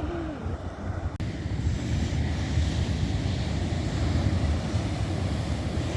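Wind buffeting the microphone in a heavy, uneven rumble, with ocean surf hissing behind it; the sound cuts out for an instant about a second in.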